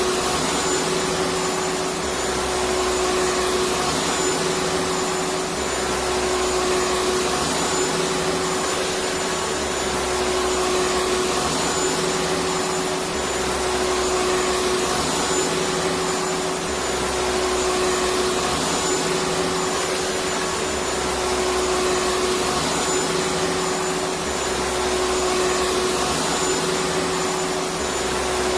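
Electric vacuum cleaner running continuously: a steady rushing hiss with a constant motor whine. A lower hum swells and fades every two to three seconds.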